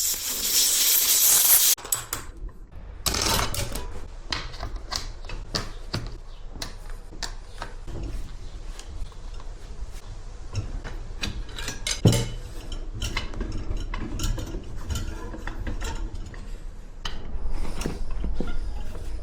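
Metal tire tools clinking and scraping against a dirt bike wheel rim during a tire change: many short metallic clicks and clanks, with a sharp knock about twelve seconds in. A loud hiss opens it and cuts off suddenly after about a second and a half.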